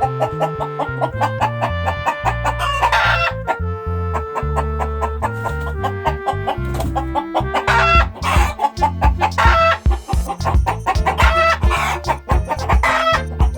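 Chickens clucking and a rooster crowing several times over background music with a steady beat.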